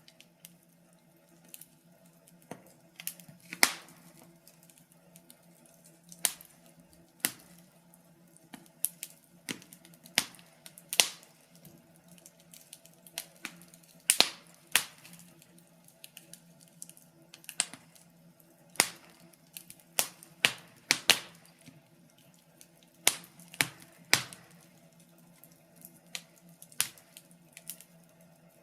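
Wood fire crackling: irregular sharp pops and snaps, a few a second, some much louder than others, over a faint steady low hum.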